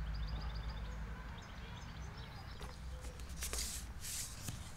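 Outdoor ambience of small birds chirping: a quick run of short high notes in the first second, then scattered chirps, over a low steady hum. A few short soft hissing sounds come in the second half.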